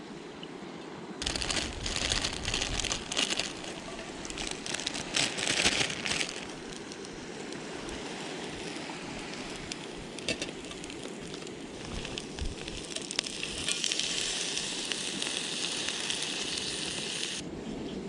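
Seafood mix and stir-fry vegetables frying in a hot pan. The crackling sizzle starts suddenly about a second in and is loudest in uneven bursts for the first few seconds, then settles to a steadier sizzle that swells again near the end.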